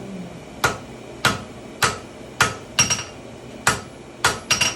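A blacksmith's hammer striking iron on an anvil about ten times, unevenly spaced, with a few quick double blows and a short metallic ring off the anvil, while forging a tomahawk.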